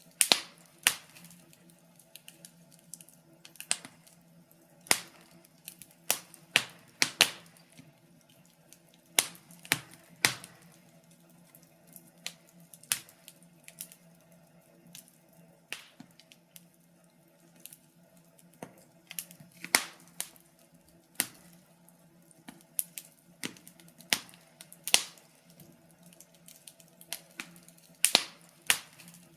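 Wood fire crackling in a fireplace: irregular sharp pops and snaps, a few loud ones every couple of seconds among smaller ticks, over a faint steady low hum.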